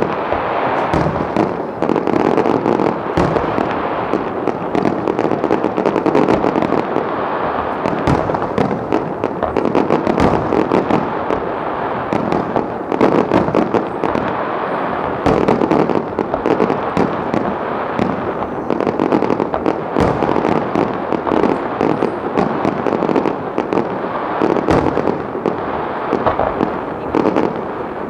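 Aerial fireworks display: shells bursting in rapid, overlapping bangs with continuous crackling.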